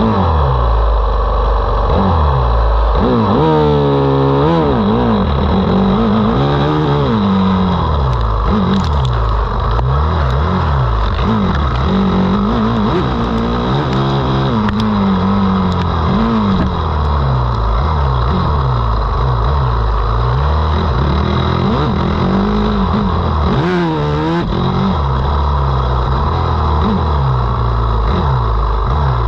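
Motocross bike engines running hard, pitch rising and falling over and over as the throttle is opened and shut. A sharper rising-then-falling whine stands out around four seconds in and again near twenty-four seconds.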